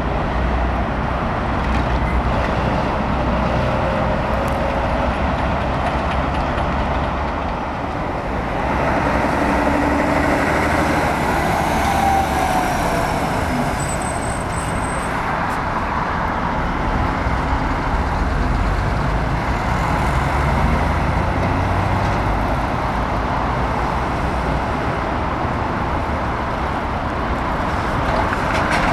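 Heavy diesel trucks running and driving past, a continuous engine noise that dips and then swells again about a third of the way in as the pitch shifts with a passing truck.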